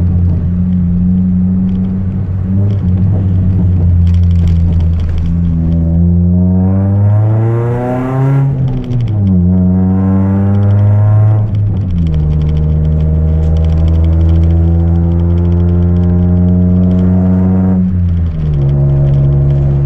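Chevrolet Celta 1.0 four-cylinder engine with a 4-into-1 header and an open two-inch exhaust without mufflers, under way. Its note climbs steadily under acceleration, drops sharply at a gear change, then holds steady, with two more drops in pitch as it shifts or lifts off.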